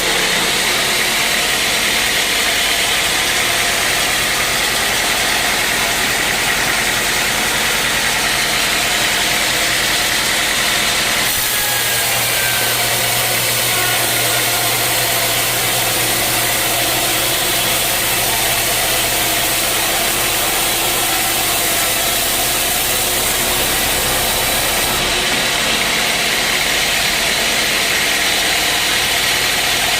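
Sawmill machinery running steadily: a motor's hum under loud, even noise. The sound changes abruptly about eleven seconds in and again near the end.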